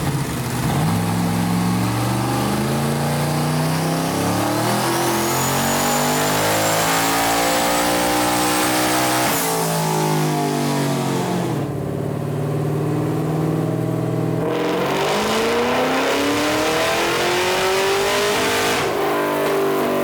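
Car engine accelerating hard: its pitch climbs, drops suddenly at a shift about nine seconds in, then climbs and drops again near the end. A thin high whine rises with the engine in the first half.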